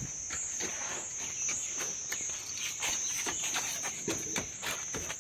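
Steady high-pitched insect chirring, like crickets, with scattered short knocks and scrapes throughout.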